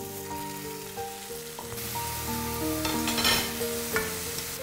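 Ginger-garlic and garam masala paste sizzling as it fries in hot oil with onions and curry leaves, turned in a nonstick pan with a steel spoon. The sizzle swells about two seconds in. Soft background music with long held notes plays underneath.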